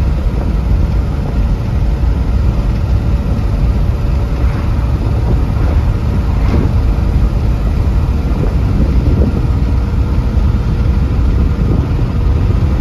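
A car driving at a steady speed: an even, low rumble of engine and road noise with wind.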